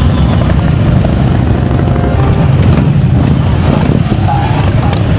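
Motor vehicle engines running with a loud, steady low rumble.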